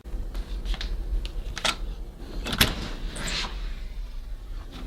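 A door being opened: scattered clicks and knocks, with the loudest rush of noise about two and a half seconds in, over a low steady rumble.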